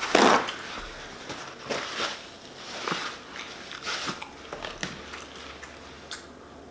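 A person biting into a shrimp po' boy sandwich and chewing it, heard close to the microphone: a loud bite right at the start, then irregular chewing sounds with occasional crunches.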